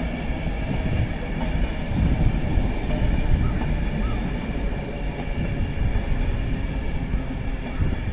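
InterCity 225 train hauled by a Class 91 electric locomotive running past: a steady low rumble with a faint whine of several steady high tones above it.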